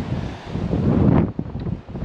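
Wind buffeting the microphone in gusts, a low rumble that swells loudest about a second in.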